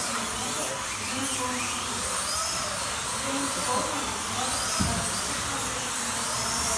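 Slot cars' small electric motors whining around the track, the pitch rising and falling again and again as the cars accelerate down straights and brake into corners, over a steady hiss. A low thump about five seconds in.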